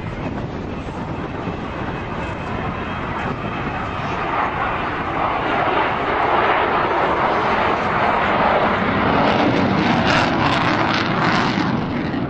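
Avro Vulcan's four Rolls-Royce Bristol Olympus 202 turbojets at high power. The jet noise swells loud about halfway through, holds, then eases slightly near the end.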